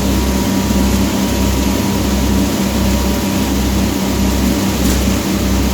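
Boat engine running steadily with a deep hum and a low throb that pulses about three times every two seconds, under a haze of noise.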